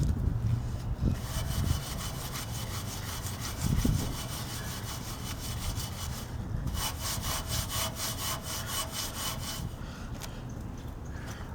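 Rapid back-and-forth scrubbing strokes on a 1965 Honda Cub's painted steel frame, about five a second, pausing briefly about six seconds in and again near ten seconds, over a low rumble with one dull thump near four seconds.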